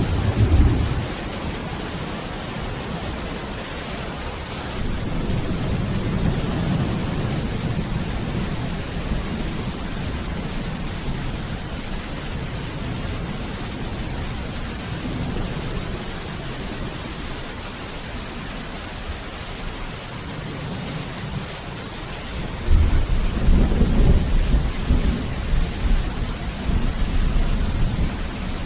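Steady rain with rolling thunder. A low rumble comes at the start, a softer one a few seconds in, and a louder, longer rumble begins near the end.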